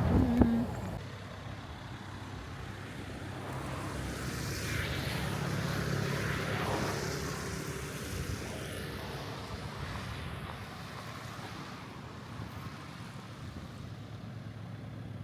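Car on the move: steady engine and road noise that swells a few seconds in and eases off again.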